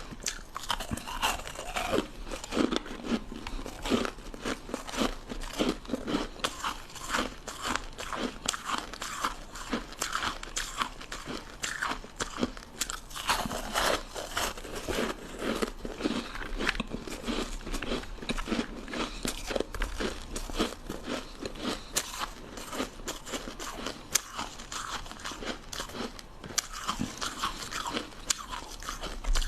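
Close-up crunching of frozen ice sticks being bitten and chewed, a dense run of crackling crunches with no pause.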